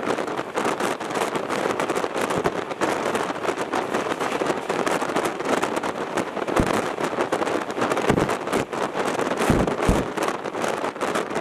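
Fast train running at speed, heard from its window: a steady rush of wind and rail noise with a dense rattling texture, and a few low thumps in the second half.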